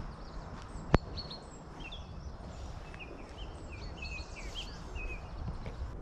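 Small birds chirping, a scatter of short high calls, over a steady low rumbling noise, with one sharp click about a second in.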